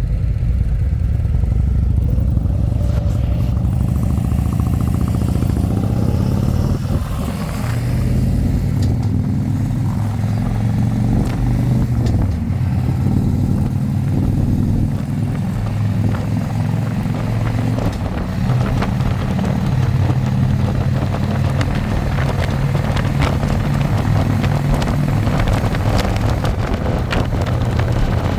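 Harley-Davidson Electra Glide V-twin engine running under way, heard from the passenger seat as a steady low rumble, dipping briefly about seven seconds in.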